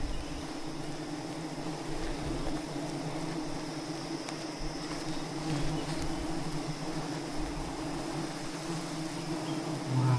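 Steady buzzing drone of a swarm of wild bees around a large hive, with a short low thump near the end.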